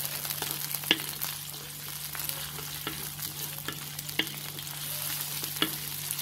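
Shallots, curry leaves and chopped tomato sizzling in hot oil as they are stirred and sautéed for a curry base, a steady hiss with a few scattered sharp clicks.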